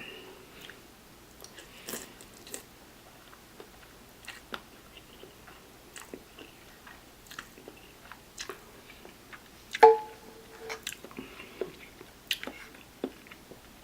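Close-miked chewing and wet mouth sounds of someone eating spicy noodles: irregular soft smacks and clicks, with one short louder pitched sound about ten seconds in.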